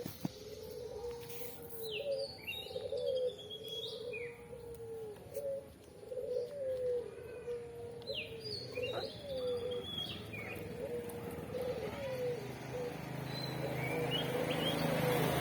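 Birds calling: a low, wavering call repeating over and over, with short, sharp rising chirps above it twice.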